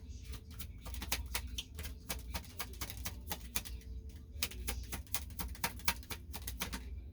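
A deck of reading cards being shuffled by hand: a quick, irregular run of sharp clicks and snaps from the cards, over a steady low hum.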